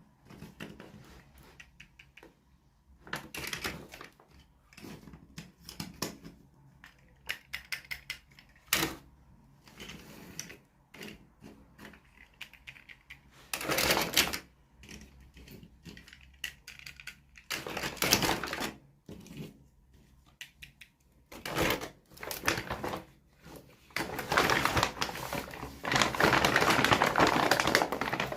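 Toy packaging being handled and opened by hand: irregular clicks and taps of plastic and cardboard, with short bursts of rustling and a longer stretch of crinkling near the end.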